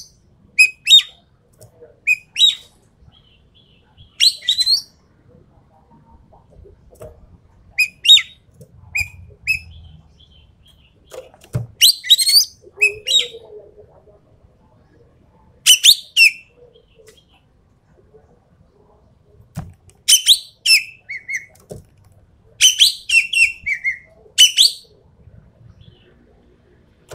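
Green magpie (ekek keling) calling: loud clusters of short, sharp, high whistled notes, some falling in pitch, repeated in bursts every few seconds.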